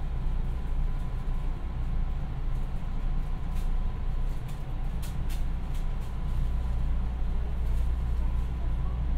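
JR West 221 series electric train heard from inside the carriage: a steady low rumble as it runs.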